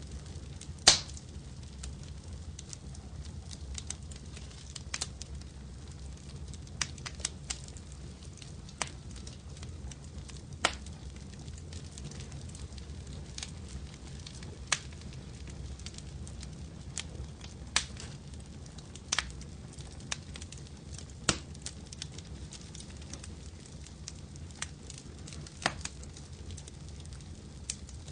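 Fireplace wood fire crackling: scattered sharp pops and snaps, about a dozen, the loudest about a second in, over a low steady rumble of the flames.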